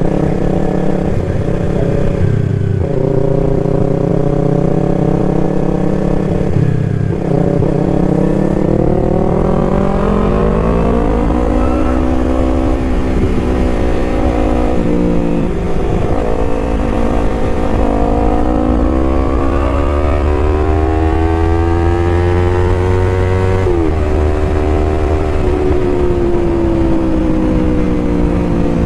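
Yamaha R3 motorcycle's parallel-twin engine being ridden. The engine note climbs steadily and then drops sharply several times, as if revving up through the gears.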